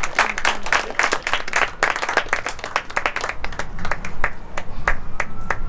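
A few people clapping their hands in a quick, even rhythm of about four to five claps a second, thinning to scattered single claps after about three seconds.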